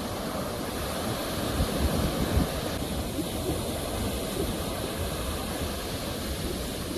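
Sea waves washing on a shore: a steady rush of surf with a few louder low thumps about two seconds in.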